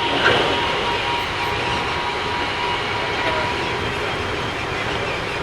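Keikyu 1000 series electric train running, heard from inside the car: steady rolling noise of wheels on rail with a held tone that fades after about three seconds, and one short knock just after the start. This set with Mitsubishi IGBT inverters runs a little noisier than other sets.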